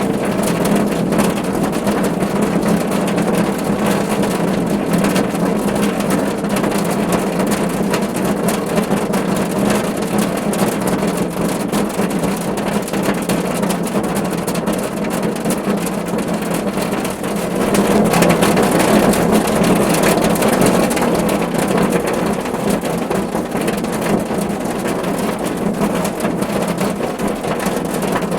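Steady rain falling on a car roof, a dense even hiss of drops that swells louder for a few seconds a little past the middle.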